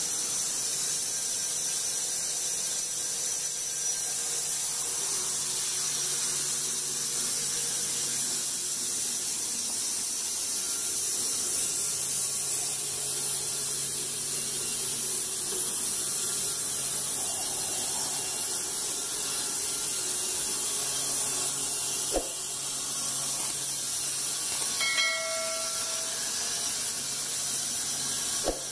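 Steady high hiss with a faint low hum underneath, broken by two sharp clicks, one about three quarters of the way through and one at the very end.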